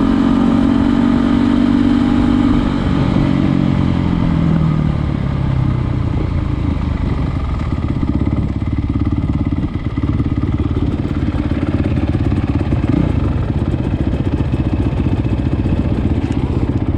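Trail motorcycle engine running, its pitch falling over the first few seconds as the revs drop, then running steadily at lower revs.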